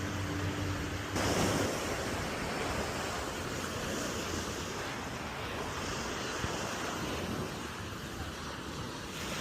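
Ocean surf washing onto the beach, with wind buffeting the microphone. A louder rush of water about a second in. A low steady hum stops at about the same moment.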